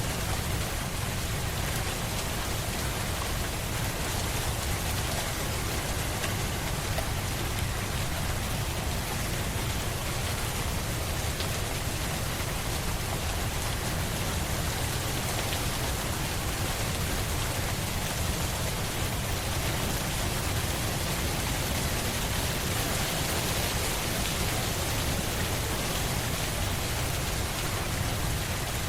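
Steady rain falling on a surface: an even hiss of many drops with a low rumble underneath, unchanging throughout.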